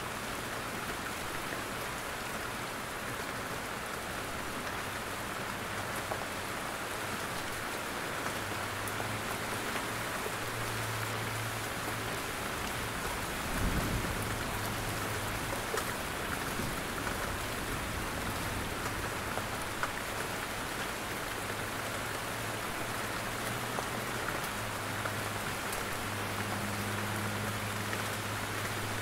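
Steady rain in a forest, with drops falling from the trees in scattered individual taps. About fourteen seconds in there is one brief low thump.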